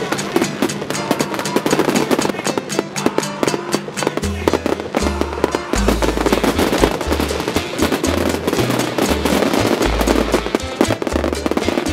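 Fireworks crackling and banging densely in rapid succession, mixed with music. A heavy, deep bass line comes in about four seconds in.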